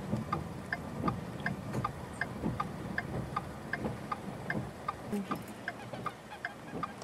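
Clock ticking steadily, about three ticks a second in an alternating tick-tock.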